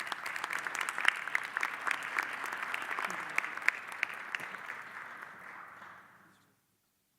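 Audience applauding, a dense patter of hand claps that dies away about six seconds in.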